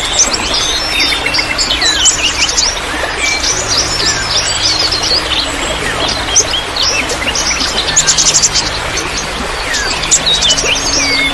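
Many small songbirds chirping, trilling and whistling at once, over a steady even hiss of trickling water.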